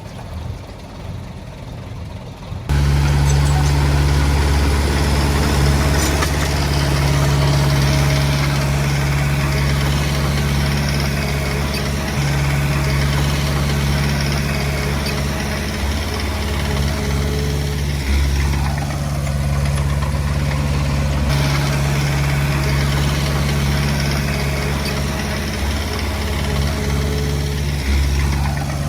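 A quieter, more distant vehicle sound for the first few seconds, then, about three seconds in, a heavy diesel engine of earthmoving equipment running steadily and loudly close by, its low engine note holding with small changes.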